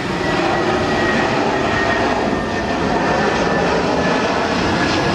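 Jet airliner passing close, a loud steady rush of engine noise with a faint high whine on top.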